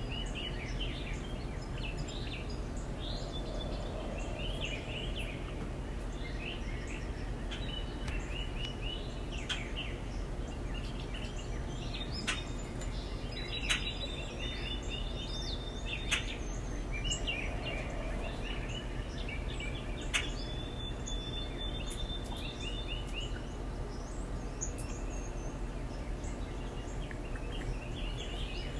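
Small backyard songbirds chirping and trilling in short, repeated calls over a steady low background hum, with a few sharp clicks near the middle.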